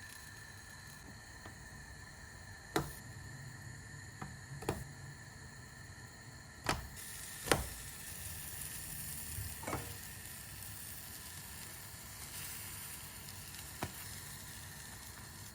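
Food sizzling in a hot frying pan, with a few sharp clicks and knocks of kitchenware. The sizzle gets louder after a knock about halfway through.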